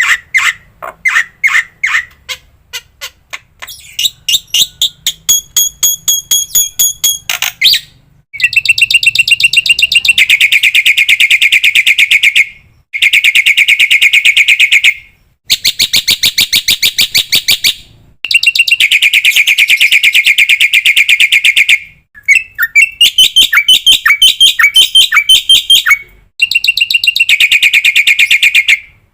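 Black-winged myna (jalak putih) song from a bird-training master recording. It opens with separate sharp chip notes and a few held high whistles. From about 8 seconds in come long, very fast chattering trills, each a few seconds long with short breaks between.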